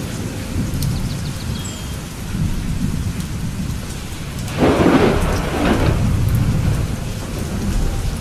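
Thunder rumbling low under steady rain, with a louder, sharper thunderclap a little past halfway that fades over a second or two.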